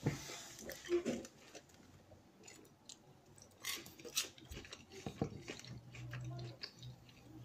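A person chewing a mouthful of breaded fish, with small clicks and mouth sounds. A low hum comes in near the end.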